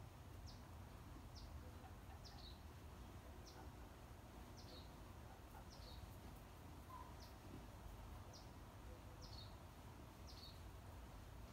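Near silence outdoors, with a bird's short, high, falling chirp repeated about once a second.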